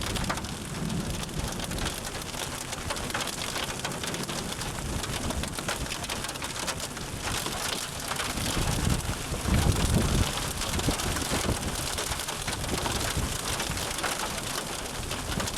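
Heavy rain pelting the car, heard from inside the cabin. A low rumble swells and fades around nine to ten seconds in.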